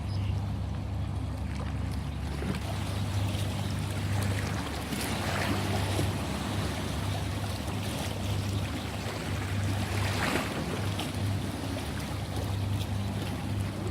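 Ocean waves washing on the shore, with two swells surging about five and ten seconds in, over a steady low rumble.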